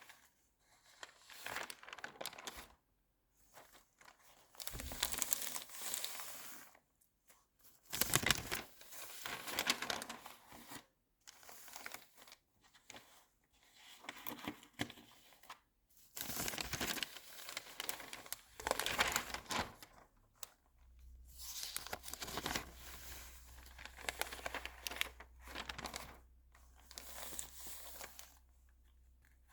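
Magazine pages being turned and handled, crinkling and rustling in bursts every second or two with short pauses between. A faint low hum comes in about two-thirds of the way through.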